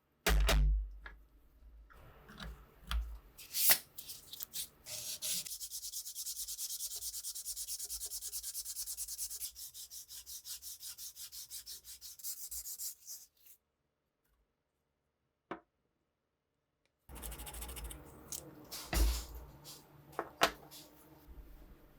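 Hand sanding in rapid, even back-and-forth strokes for about eight seconds, then it stops. Scattered knocks and handling clicks come before and after, with a short near-silent gap and a single click between.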